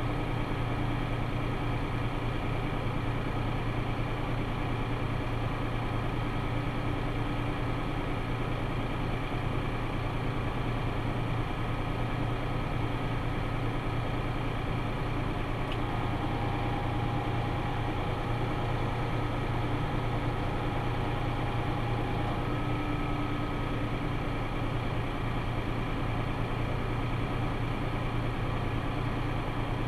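Tractor engine running steadily at an even speed, with a faint higher tone joining in for several seconds past the middle.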